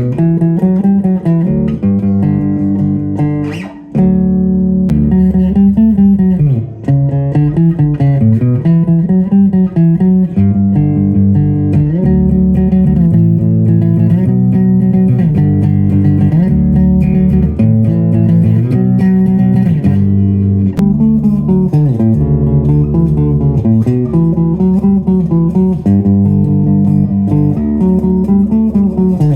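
Beginner electric bass guitar played through a bass amp: a continuous line of plucked notes, with a brief break about four seconds in.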